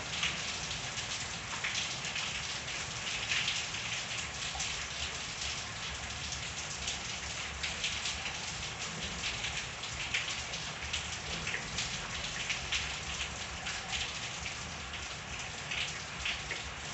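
Steady rain falling, with many individual drops tapping sharply on surfaces over a constant hiss.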